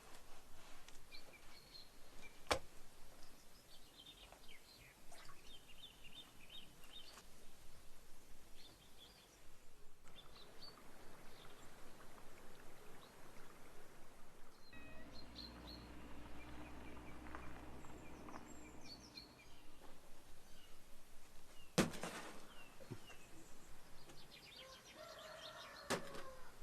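Birds chirping outdoors, with a few sharp knocks, the loudest about two seconds in and another near the end, and a low hum for several seconds just past the middle.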